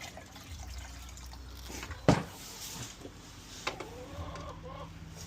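Filled calf milk bottles being handled, with liquid sounds and one sharp knock about two seconds in, then a lighter click. A faint wavering call comes near the end.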